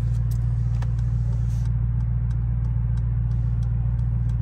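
Mercedes-AMG GLE 63 S's 4.0-litre twin-turbo V8 running at a steady low idle, heard from inside the cabin as the SUV creeps to a stop; a constant deep drone with no revving.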